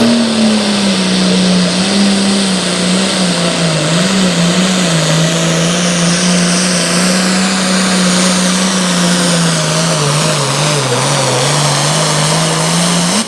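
Pulling truck or tractor engine running flat out under heavy load on a sled pull, its pitch sagging slowly as the sled bogs it down, lifting briefly near the end before the sound drops off suddenly.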